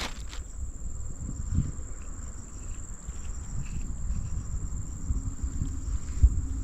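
Insects droning steadily at one high pitch, over a low, uneven rumble.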